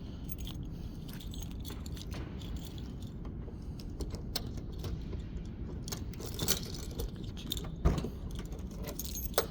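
A bunch of keys jangling and clicking, with a few louder knocks near the end, as the trunk lid is unlocked with the key and opened.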